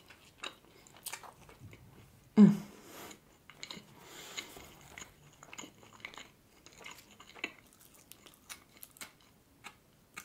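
Close-miked chewing of flatbread with hummus: soft wet mouth clicks and smacks throughout. About two and a half seconds in there is a short, louder hummed "mm" with the mouth full.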